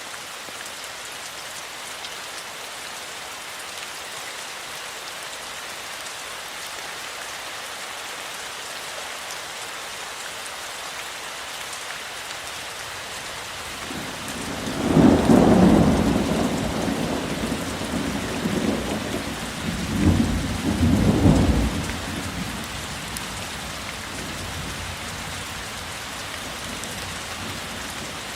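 Steady heavy rain falling, with a roll of thunder about halfway through that rumbles in two loud swells and then dies away.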